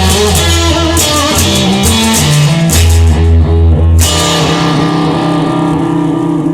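Instrumental rock music with no singing: guitar over a steady bass line, with drum and cymbal hits.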